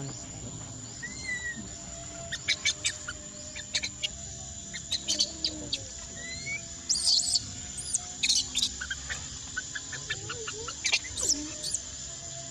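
Birds chirping and calling in scattered short notes and quick whistled slurs, over a steady high-pitched hum, as in a forest ambience.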